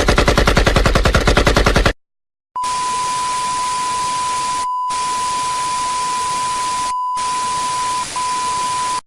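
A rapid burst of evenly spaced shots, like machine-gun fire, lasting about two seconds. After a short silence comes steady static hiss with a steady high beep running through it, with two brief dropouts, all cutting off abruptly near the end: stock meme-edit sound effects.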